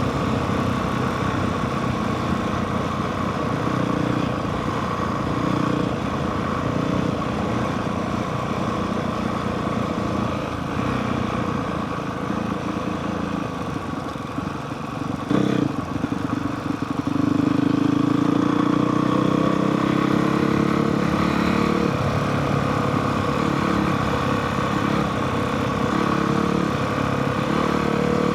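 Honda CRF450R dirt bike's single-cylinder four-stroke engine running steadily while riding. About fifteen seconds in there is a short knock, after which the engine gets louder and its pitch rises.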